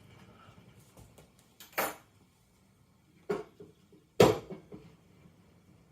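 Dishes clinking and knocking while being handled: three separate hits, the third, about four seconds in, the loudest.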